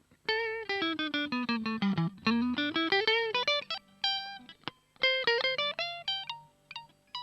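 Jolana Tornado electric guitar playing single-note lead lines. In the first couple of seconds the pitch glides down and back up, then come quick picked notes broken by short pauses.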